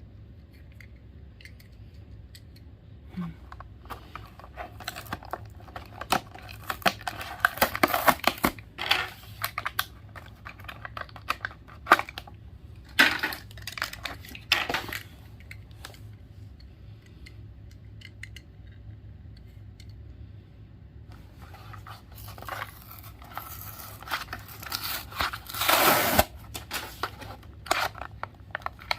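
Toy car blister packaging being torn and cut open by hand: irregular spells of tearing card and crinkling plastic with sharp clicks, about 4 to 9 seconds in, again around 13 to 15 seconds, and a longer spell from about 22 to 27 seconds.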